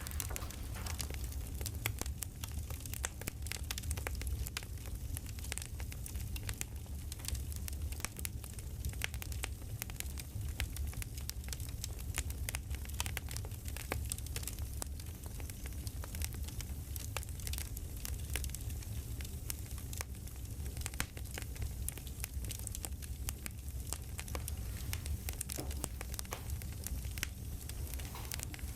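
Campfire crackling: a steady stream of small sharp pops and snaps over a low rumble.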